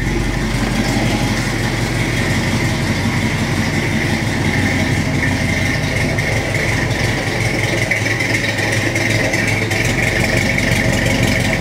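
Ford 289 V8 idling steadily, heard from the rear at its exhaust: an even, deep muscle-car rumble that runs well above stock.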